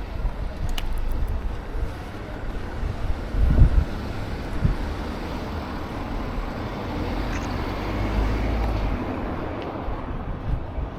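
Street traffic noise: a vehicle passes, swelling and fading between about six and nine seconds in, over a steady low rumble. A dull thump about three and a half seconds in is the loudest moment.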